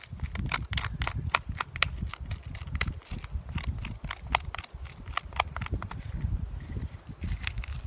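Footsteps crunching through wet woodland leaf litter and twigs, an irregular run of sharp crackles and snaps several times a second over a low rumble.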